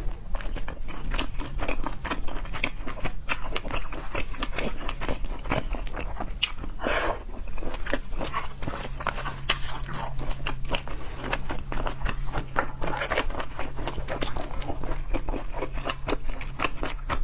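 Close-miked eating of seafood: continuous chewing and crunching, with many small crisp clicks and wet smacks at an irregular pace.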